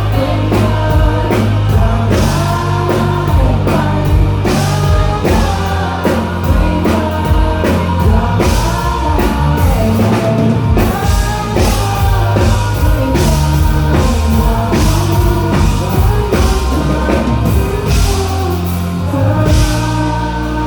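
Rock band playing live with drum kit, bass and a singing voice, drums hitting steadily. Near the end the drums stop and a held chord rings on.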